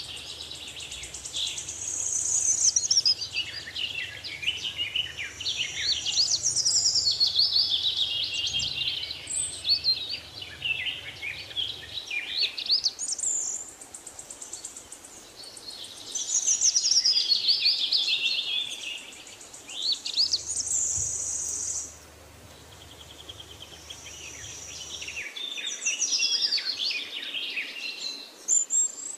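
Songbirds chirping and singing, many overlapping high trills and quick sweeping calls, with short lulls between bursts.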